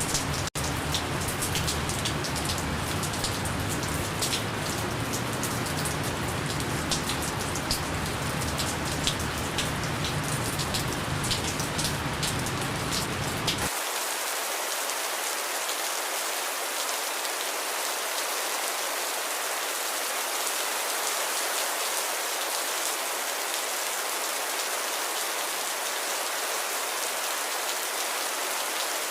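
Steady gentle rain falling, with many sharp drop taps through the first half. About halfway through the sound changes abruptly to a smoother, thinner hiss with the low rumble gone.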